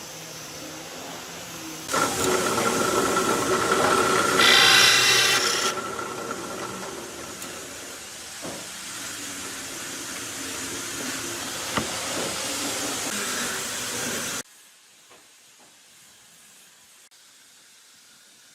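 Angle grinder starting up suddenly and running with a steady high whine and hiss. It grows louder and harsher for a moment around five seconds in, then runs on more quietly and cuts off abruptly about fourteen seconds in.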